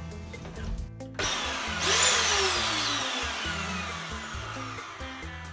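Vacuum cleaner motor switched on about a second in for a test run after its power cord was repaired: a loud rush of air that then winds down with a falling whine. Background music plays underneath.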